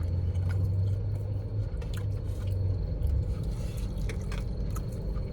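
A person eating: chewing food, with short clicks and scrapes of a utensil against a takeout container, over a steady low hum.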